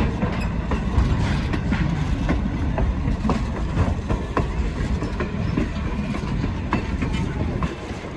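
Steam-hauled train rolling past, its wheels clicking over the rail joints over a heavy low rumble, fading away near the end.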